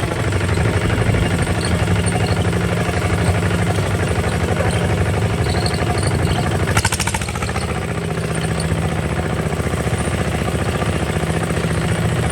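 Single-cylinder diesel engine of a Kubota RT140 DI walking tractor running steadily, with a short rattle about halfway through.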